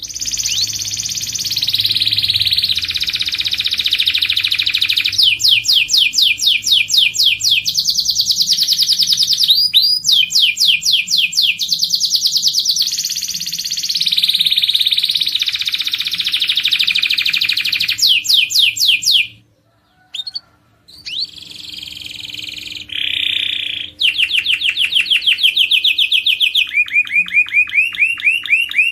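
Domestic canary singing a long, loud song of rapid trills and rolls, each phrase repeating one note at its own speed, with a brief break about two-thirds of the way through.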